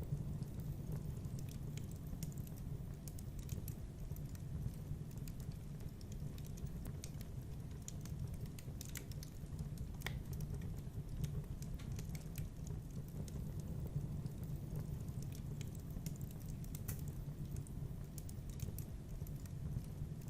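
Wood fire burning in a fireplace: a steady low rumble of flames with scattered sharp crackles and snaps, one louder snap about halfway through.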